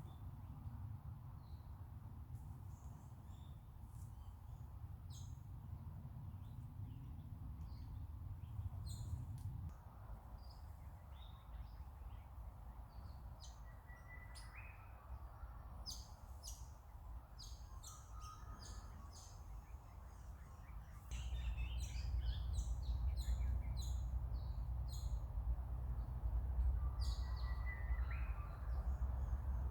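Swift parrots calling in short, high-pitched chirps, scattered at first and coming thicker and faster from about halfway. Under them is a low rumble that steps up in loudness about two-thirds of the way through.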